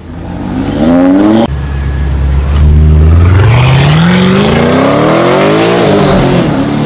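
Car engine revving: it rises in pitch and cuts off suddenly, idles low for a couple of seconds, then climbs in one long rev and drops back near the end.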